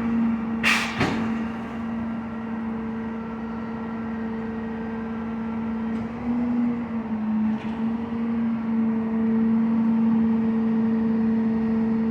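CCC McNeilus rear-loader garbage truck running with a steady, held hum, as when the engine is raised to drive the hydraulic packer, with a single sharp bang about a second in.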